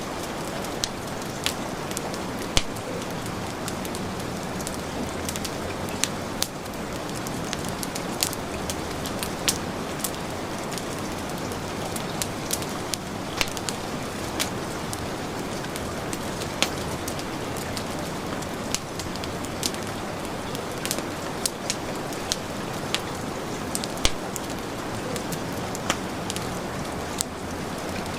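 Heavy rain falling steadily, mixed with a wood fire crackling and popping at irregular moments, several of the pops sharp and louder than the rain.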